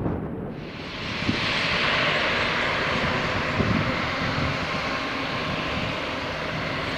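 Jet engines of a departing Airbus A330-200 at takeoff thrust: a steady, loud rushing noise that sets in about half a second in and holds, over gusty wind on the microphone.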